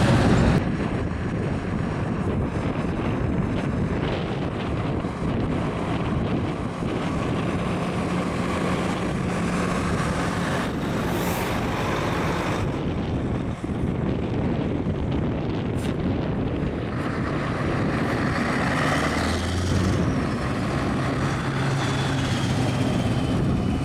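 Truck engines running, a steady low hum under wind buffeting the microphone.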